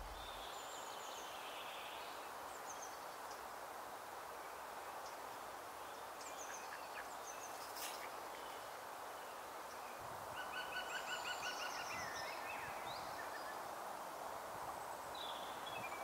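Small birds chirping and calling over a steady background hiss, with a short rapid trill of evenly repeated notes about ten seconds in.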